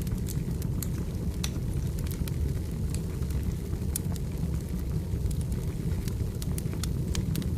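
Firewood burning: irregular sharp crackles and pops over a steady low rumble of the fire.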